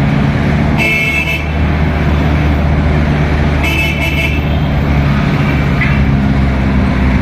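Steady low hum of vehicle engines in slow road traffic, with two short, high-pitched horn toots, about one second in and again about four seconds in.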